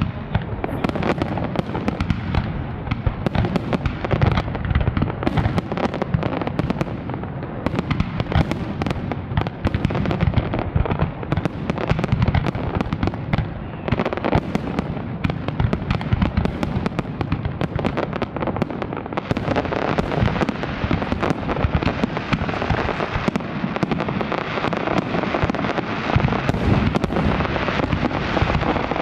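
Large fireworks display: a dense, continuous barrage of rapid bangs and reports.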